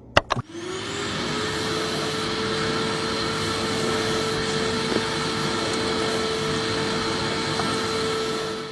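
An electric appliance motor switched on with a click, spinning up with a brief rising whine and then running steadily with a loud even rush; it winds down near the end.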